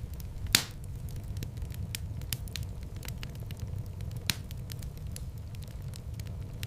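Wood fire burning in a fireplace: a steady low rumble of flames under frequent small crackles, with two louder pops, about half a second in and just after four seconds.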